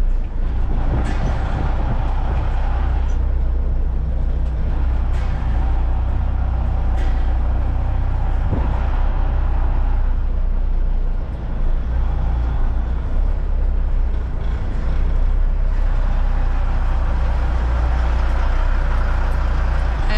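Caterpillar C-15 inline-six diesel in a Kenworth truck running steadily with a strong low drone, with a few light knocks and clicks over it in the first half.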